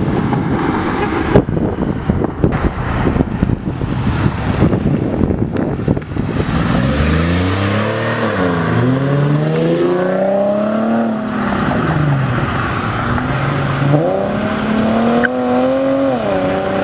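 A performance car's engine accelerating away. A deep rumble comes first, then from about seven seconds in the engine note climbs, drops back and climbs again several times as the car pulls away through the gears.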